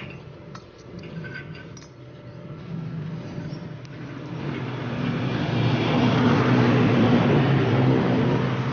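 A motor vehicle passing by, its engine noise swelling over a few seconds and starting to fade near the end, with a few light metallic clinks in the first seconds.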